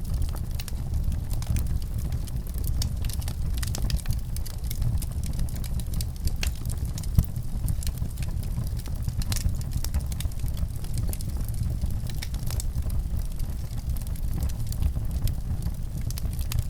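Wood fire in a fireplace crackling, with irregular small pops over a steady low rumble; one sharper pop about seven seconds in.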